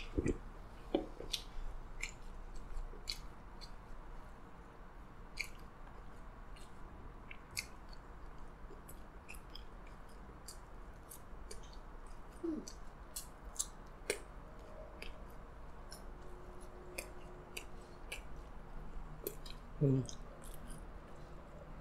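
Close-miked eating sounds: soggy, sauce-covered french fries being chewed, with many small wet mouth clicks throughout, and a louder low gulp near the end as soda is drunk from an aluminium can.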